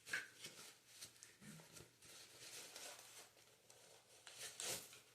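Near silence with faint rustling and handling noises, a few soft clicks among them: the side mirrors and their packaging being handled.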